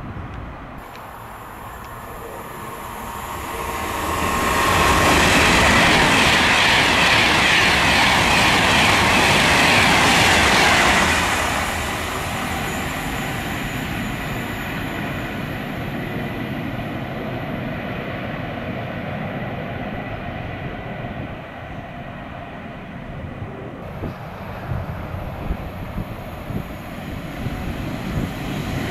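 A train passing at speed on the main line: the rushing wheel-and-rail noise builds over a couple of seconds, stays loudest for about six seconds as the train goes by, then drops to a lower, steady rumble.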